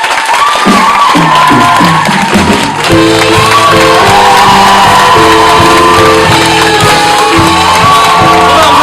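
Live music from a stage musical number: held chords over a bass line with a wavering melody line on top, and some audience cheering.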